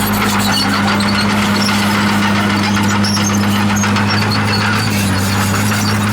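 Komatsu D51PX bulldozer running at a steady engine speed, with short high squeaks over the drone.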